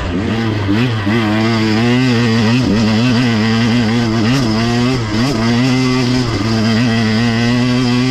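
KTM 125 XC two-stroke dirt bike engine being ridden hard, its pitch rising and falling constantly with the throttle, over a steady lower drone.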